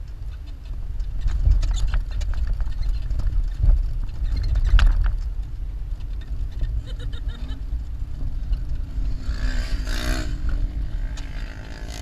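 Jeep driving over sand dunes: a steady low engine and drivetrain rumble, with knocks and rattles as it jolts over bumps during the first five seconds. A short hiss comes in near the end.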